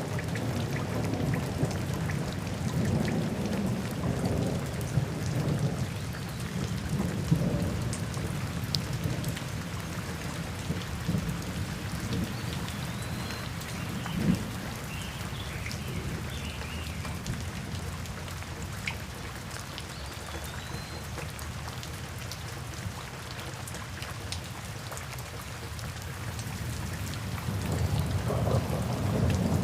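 Steady rain falling, with low rolling thunder rumbling throughout, swelling louder near the start and again near the end.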